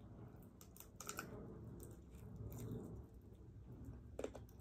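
Quiet chewing and mouth clicks from a woman gnawing meat off a chicken leg bone, with a few short, sharp clicks scattered through, the loudest about a second in and near the end.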